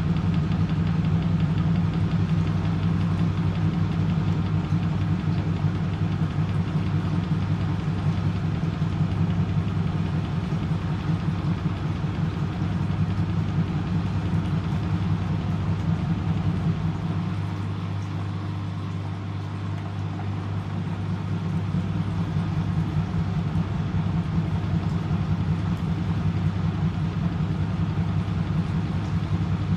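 Motor and drum of an M eurotech EW 450 washing machine (Antonio Merloni, 1997) running at spin speed, likely the 400 rpm spin of the rinse stage. It makes a steady low hum that eases off slightly for a few seconds past the middle and then picks back up.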